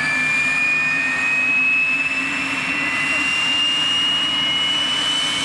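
Saab 105's Turbomeca Aubisque (Volvo RM9) turbofan engine during a cold start: a steady turbine whine that slowly rises in pitch as the engine spools up, over a low hum.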